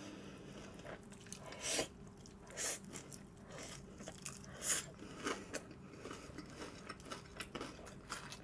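Close-miked chewing of crispy fried chicken (BBQ maple butter garlic chicken), with a few sharper crunches of the fried coating at irregular moments amid quieter mouth sounds.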